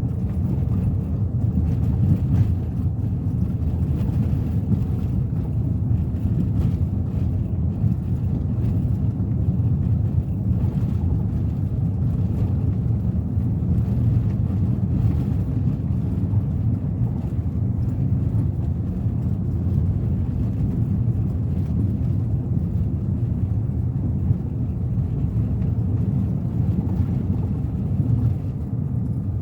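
Suzuki Ertiga 1.4 with its four-cylinder petrol engine and manual gearbox, driving at a steady pace: a constant low rumble of engine and tyre noise.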